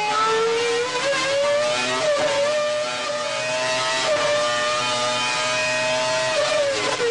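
Formula One engine running at high, steady revs. Its pitch steps up slightly about a second in, holds, and drops near the end.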